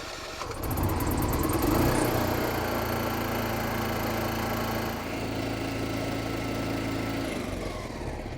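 RV generator's small engine starting up about half a second in and then running steadily, warming its oil ahead of an oil change. The sound drops off near the end.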